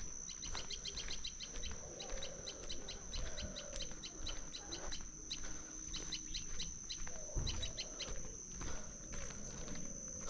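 Small birds chirping in quick runs of several short notes a second, pausing now and then, over a steady high-pitched insect drone.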